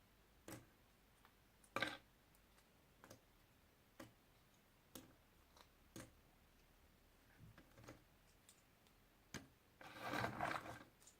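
Faint taps and clicks of jigsaw puzzle pieces being picked up and set down, about one a second, then a longer rustling scrape of pieces being shuffled near the end.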